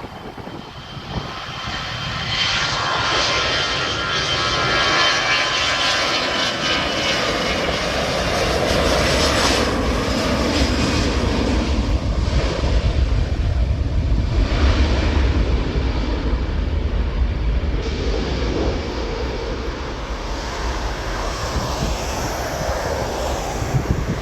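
Twin-engine narrowbody jet airliner departing under takeoff power. The engines get louder over the first few seconds with a high whine, then give way to a deep rumble that eases slightly near the end.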